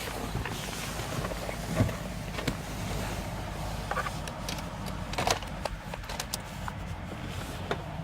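Ford Galaxy's 2.0 TDCi four-cylinder turbodiesel idling steadily after a cold start in light frost, with scattered light clicks and knocks over the engine note.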